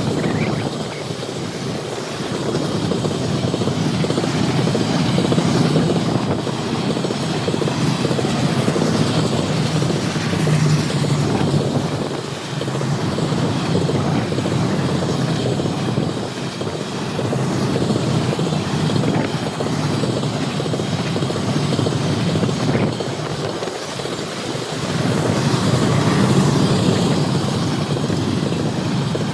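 Freight train rolling past: a steady rumble and clatter of railcars on the track, swelling and easing a little as the cars go by.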